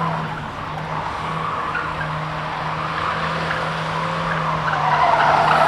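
Car drifting: the engine held at steady high revs while the tyres squeal, the squeal growing louder near the end.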